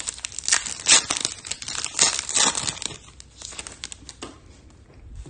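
Crinkling and tearing of a foil trading-card pack wrapper being handled, busiest over the first three seconds, then thinning to scattered light rustles.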